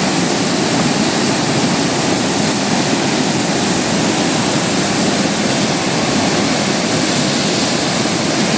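Floodwater rushing in a swollen hill stream: a loud, steady wash of noise that holds unchanged throughout.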